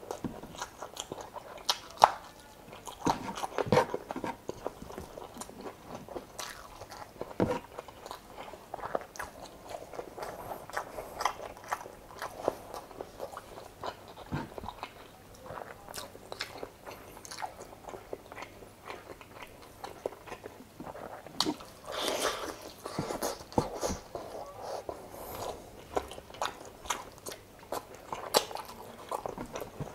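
Mukbang eating sounds: a person biting and chewing spicy chicken adobo in coconut milk with rice, heard as a run of many small, irregular mouth clicks and crunches.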